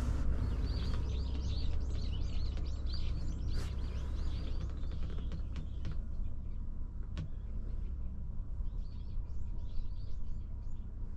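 Small birds chirping in quick repeated calls, pausing for a couple of seconds past the middle, over a steady low rumble; a sharp click about seven seconds in.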